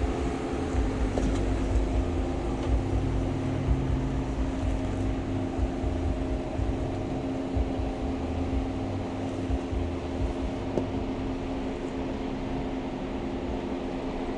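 A four-door Jeep's engine running at low speed as it crawls down a rocky switchback, a steady hum over an uneven low rumble.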